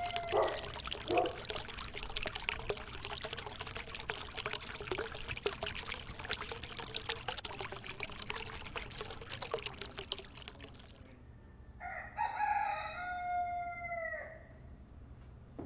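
Water pouring and splashing in a steady crackling stream for about eleven seconds, then stopping. Near the end a rooster crows once, a long held call that falls in pitch as it ends.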